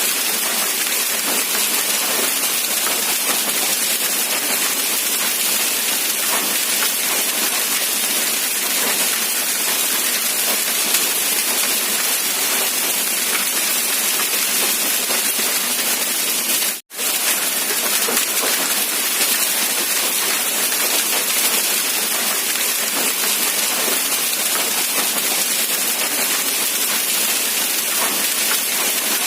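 Steady rain falling, an even, constant hiss with no low rumble. About 17 seconds in, it cuts out for a split second and comes straight back.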